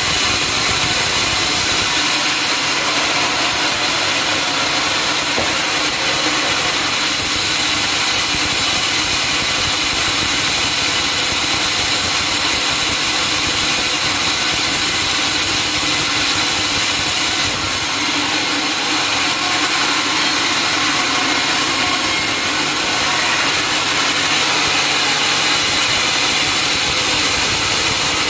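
Sawmill saw running steadily: a continuous loud machine drone with a high hiss over it, unbroken throughout.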